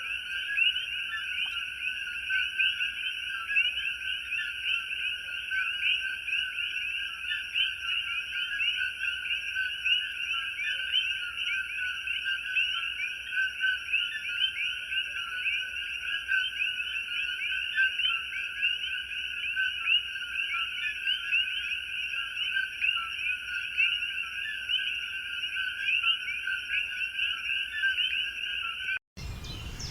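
Dense chorus of many frogs calling at once, countless short overlapping calls at a steady level. It cuts off abruptly about a second before the end.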